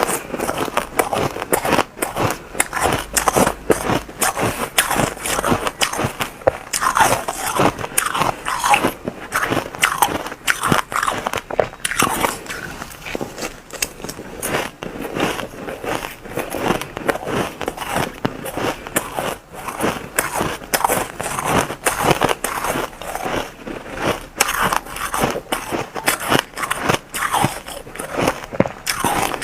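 Crushed ice being bitten and chewed close to the microphone: rapid, irregular crunching and crackling throughout.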